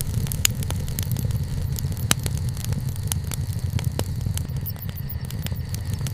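Wood campfire burning: a steady low rumble of the flames with frequent crackles and sharp pops of the burning wood, two of them louder.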